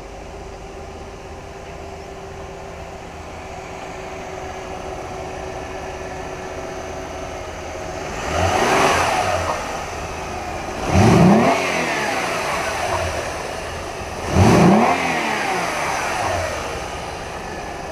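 Mercedes-Benz 3.5-litre V6 engine idling steadily, then revved three times, each rev rising quickly and falling back to idle.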